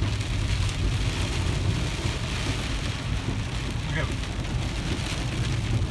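Torrential rain pounding on a moving car, heard from inside the cabin, with a steady low road rumble beneath.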